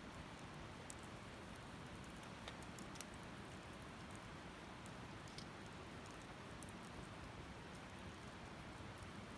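Wood fire burning quietly in a fire pit, with a soft steady hiss and small sharp crackles and pops scattered irregularly throughout.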